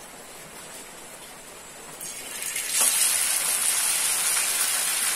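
Batter-coated chicken frying in hot oil in a pan: a faint hiss at first, then a sizzle that builds about two seconds in and turns loud and steady from about three seconds as the chicken goes into the oil.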